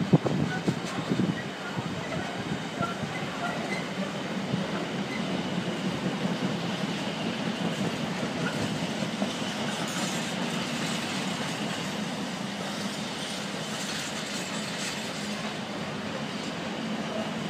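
Container flat wagons of a freight train rolling past, a steady rumble and clatter of wheels over the rails.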